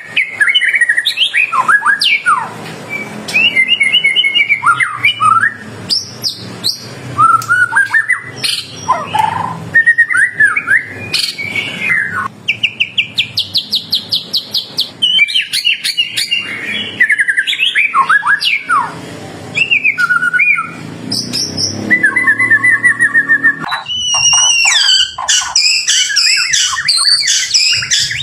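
White-rumped shama (murai batu) in full song: a loud, varied stream of whistles, glides and chirps, with a fast run of repeated notes about halfway through and higher, busier phrases near the end.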